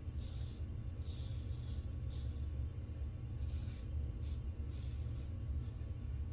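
Safety razor strokes scraping through lathered stubble on an across-the-grain pass: short, scratchy strokes coming irregularly about every half second to second, over a steady low hum.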